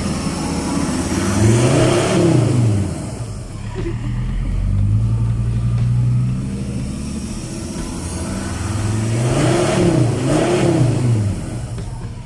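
Ford Ranger 3.2 five-cylinder turbo-diesel idling through a newly fitted full exhaust with a proper muffler, revved once about a second and a half in, held at higher revs for a moment around the middle, then revved twice in quick succession near the end.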